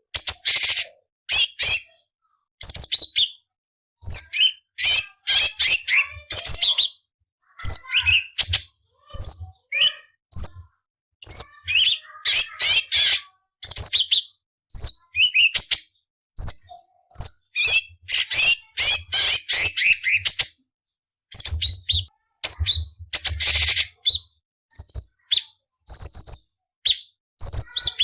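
Orange-bellied leafbird (cucak cungkok) singing a fast run of short, high chirping and whistled phrases. Some of the phrases are rough and rasping, the harsh 'nyerecet' fills prized in song-tutoring tracks. Abrupt silent gaps part the phrases.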